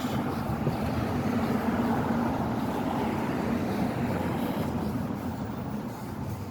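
A vehicle passing, a steady rumble with a faint hum that swells about two seconds in and fades toward the end.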